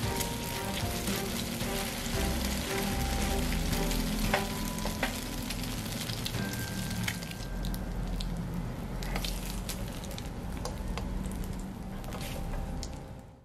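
Eggplant rounds topped with a beaten-egg, Spam and vegetable mixture frying in hot oil in a pan: a steady sizzle with scattered crackles and pops.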